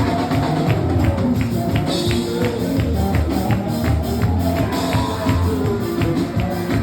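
Live band music with a steady beat: bass, sustained pitched notes and regular percussion strokes.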